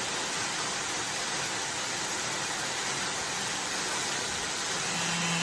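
A wood-processing machine running with a steady, even rushing noise, with no distinct strokes; a low steady hum joins near the end.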